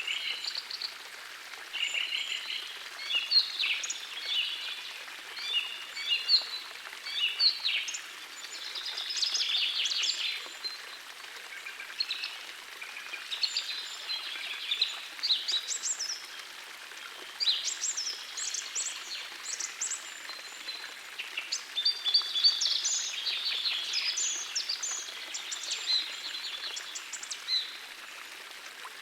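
Several birds singing in quick, repeated phrases of chirps and trills, over the steady rush of a gentle forest stream.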